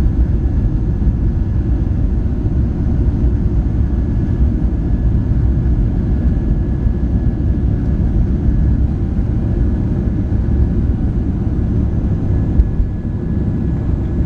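Steady low rumble of jet engine and airflow noise inside the cabin of a Boeing 737-700 airliner, with faint steady whining tones over it. There is a single short click near the end.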